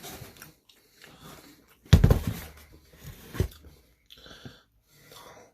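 Close-miked eating: wet chewing and mouth noises, with a loud crunching bite about two seconds in and a sharp click about a second and a half later.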